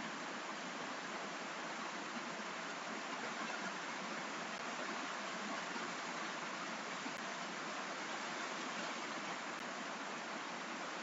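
Steady rain hiss: an even wash of falling rain that holds the same level throughout, with no single drops, knocks or voices standing out.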